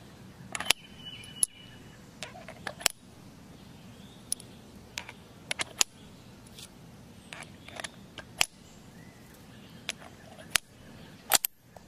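Brass cartridges clicking and clinking as they are pushed by hand into the chambers of a stainless revolver's open cylinder: a series of sharp metallic clicks at irregular intervals, with a louder double click near the end.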